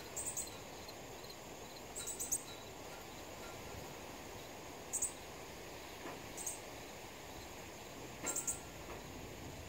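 Sharp, high bird chips in short clusters of two or three, about five times, over a steady high-pitched insect trill.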